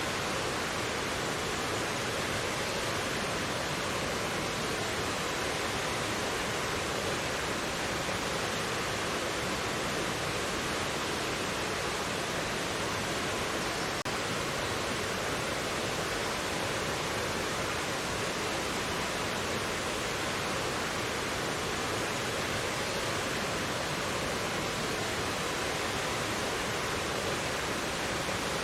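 Mountain valley stream rushing over rocks: a steady, even rush of water.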